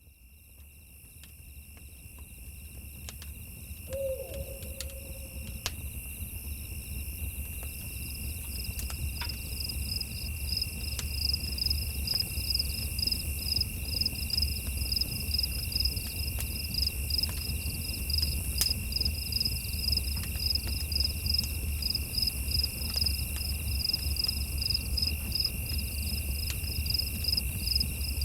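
Night insects, crickets, chirping in an even pulsing rhythm over a steady high trill, with scattered faint crackles and a low rumble underneath. The sound fades in over the first several seconds, and a single short call comes about four seconds in.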